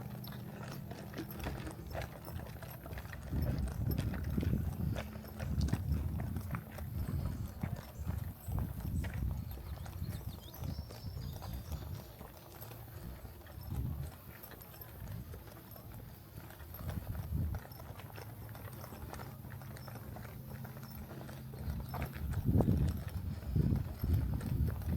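Footsteps of a person walking a trail, a run of dull, regular thuds.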